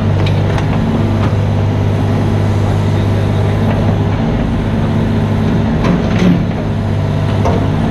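Diesel engine of a mini excavator running steadily, with a few clicks and knocks of the machine working and a louder knock about six seconds in.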